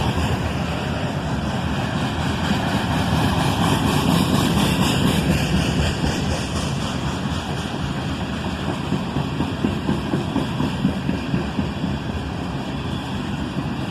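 Loaded iron-ore freight train led by a GE ET44AH diesel locomotive rolling past close by: a steady rumble of engine and steel wheels on the rails.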